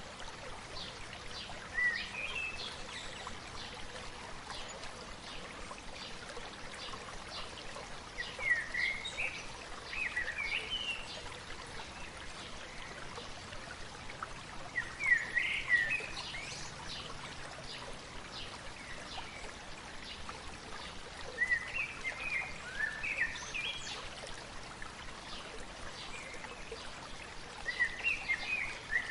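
A stream babbling steadily, with a bird singing short bursts of chirps about every five to six seconds.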